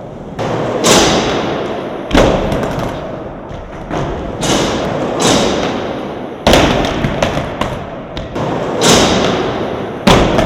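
Skateboards rolling and landing at a skatepark: wheel rumble that swells and fades, broken by sharp board thuds and clacks every one to two seconds.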